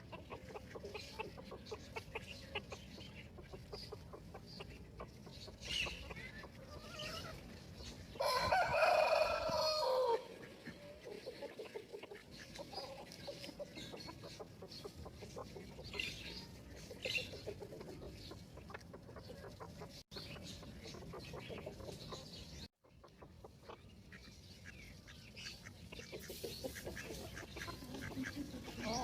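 Free-range chickens clucking on and off, with a rooster crowing once, loud and about two seconds long, some eight seconds in.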